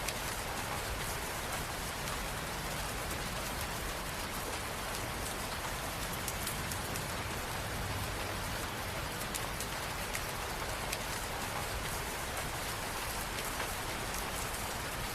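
Steady rain falling on hard surfaces, a continuous even patter with scattered individual drop ticks.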